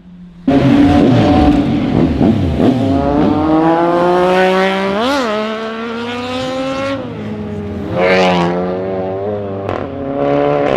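Superbike engine revving hard: the engine note climbs steadily for several seconds, spikes in a quick throttle blip, then drops, followed by another rise and fall and a few short blips near the end.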